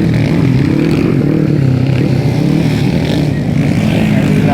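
Underbone motorcycle engines running together in a race, a loud steady drone of several overlapping engine notes.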